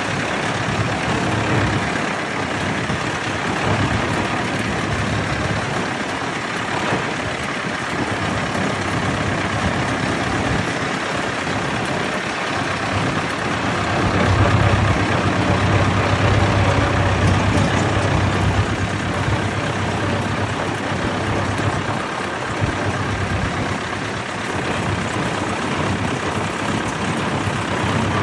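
Vintage tractor engines running, with a low engine note that grows louder for a few seconds about halfway through.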